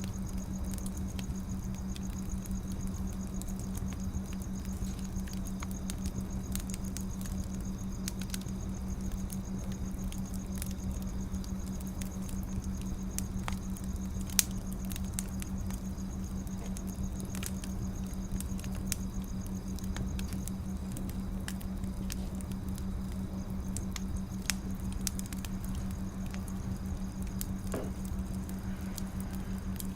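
Burning firewood crackling, with scattered irregular pops over a steady low hum.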